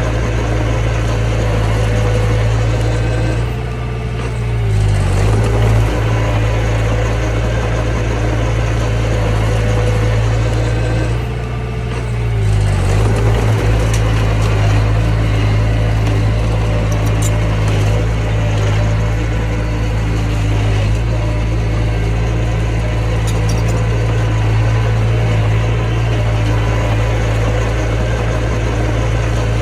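Mini bulldozer's diesel engine running steadily. Twice, about four and twelve seconds in, its note briefly drops and then climbs back.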